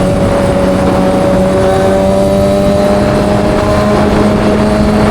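Kawasaki ZX-6R's inline-four engine through an M4 aftermarket exhaust, held at a steady rpm with its drone creeping slightly higher in pitch.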